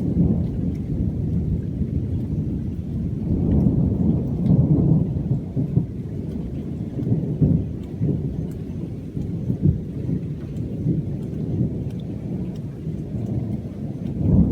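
Thunder from a lightning storm rumbling almost without pause, swelling several times into louder peals, with faint ticks of rain.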